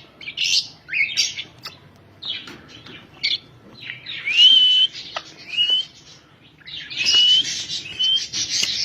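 Male Indian ringneck parakeet giving quick high chirps and harsh squawky notes. In the second half these are mixed with a few short, clear whistles that rise slightly.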